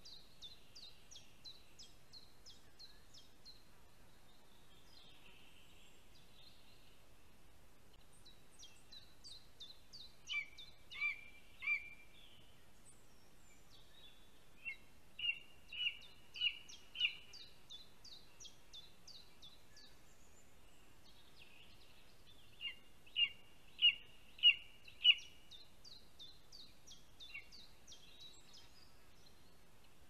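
Birds calling in the forest: quick runs of high, thin notes repeated several times, and three runs of four to six louder, lower notes at about two a second.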